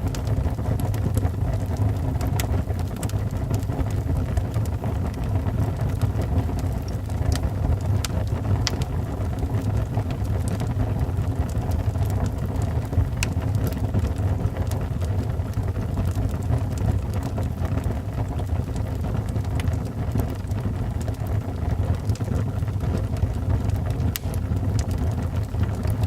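Wood fire burning in a fireplace: a steady low rumble of the flames with sharp crackles and pops scattered irregularly through it.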